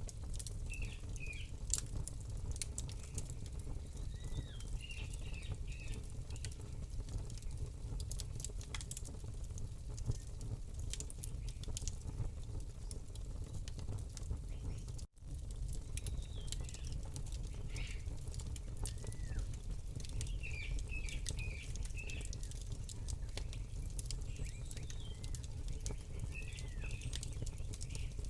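Campfire crackling and popping over a steady low rumble, with small birds chirping short, gliding calls every few seconds. The sound cuts out for an instant about halfway through.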